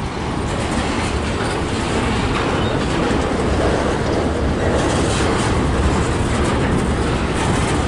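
Long freight train rolling slowly past on a curve, a steady rumble of passing cars with light clicks of the wheels over the rail joints.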